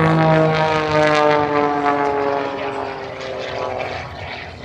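Propeller airplane flying past: the engine and propeller drone drops steadily in pitch and grows quieter as it goes by.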